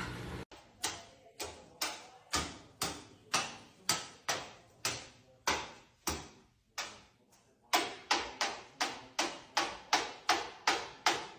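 A series of sharp taps or clicks, each dying away quickly, about two a second, then after a short pause faster, about three a second.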